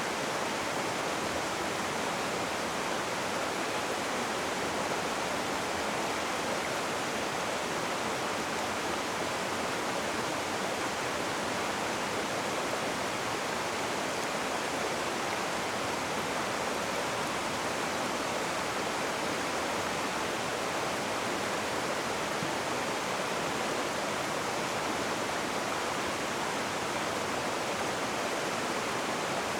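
Rushing water, a river or stream running over rocks, as a steady, even rush with no changes.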